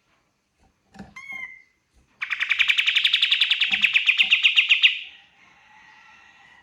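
Kapas tembak bulbul singing: a couple of short call notes, one rising, then a loud rapid trill of about ten notes a second lasting nearly three seconds, fading into fainter chatter.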